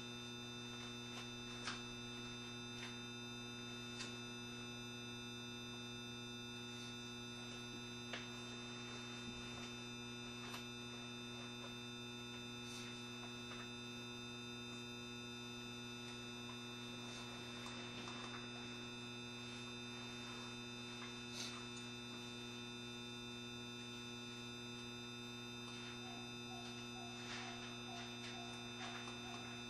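Steady electrical hum from a 7200-series electric train, a low drone with several fixed whining tones above it that stay unchanged throughout, with a few faint clicks. Near the end a short row of quick, even pulses sounds.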